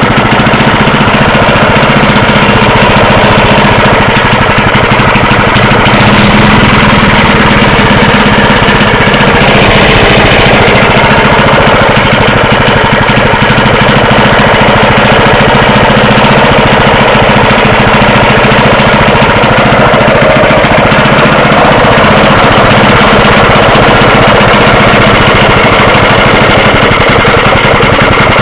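Freshly rebuilt Suffolk 75cc two-stroke engine running steadily and loud. It has new piston rings and high compression.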